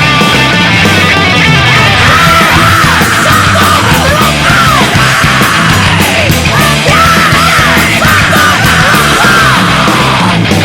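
Loud heavy rock music with distorted guitars and drums. Yelled vocals come in about two seconds in and carry on until near the end.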